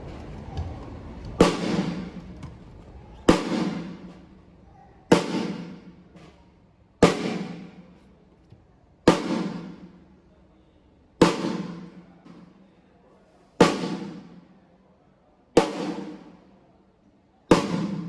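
A single drum of a drum kit struck once about every two seconds, nine hits in all, each one ringing out with a low tone before dying away: one drum being checked on its own at a sound check.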